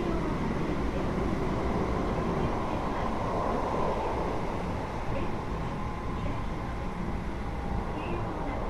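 Keio 8000 series electric train running, heard from inside car 8203 above its Hitachi GTO-VVVF main controller. It makes a steady rumble of wheels and motors with a faint steady whine in it.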